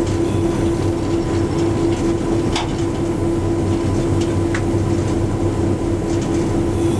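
GP7 diesel-electric locomotive running steadily: its EMD 567 two-stroke V16 gives a loud, pulsing hum with a few faint clicks over it.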